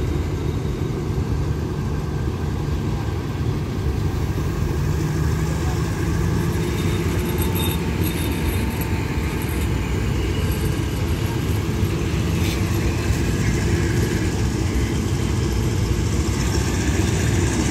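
Railway coaches rolling slowly past on the track, a steady low rumble of wheels on rails. Two short metallic clanks come through, one about halfway through and one about two-thirds of the way in.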